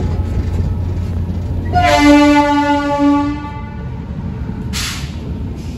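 Moving passenger train heard through an open coach door: the steady low rumble of the running train, with a train horn sounding one steady blast of nearly two seconds, about two seconds in.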